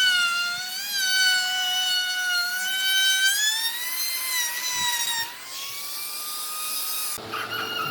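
Electric power tool motor whining while cutting wood, its pitch wavering and sagging under load, then rising a little about five seconds in. It stops abruptly near the end, where a different, fainter sound follows.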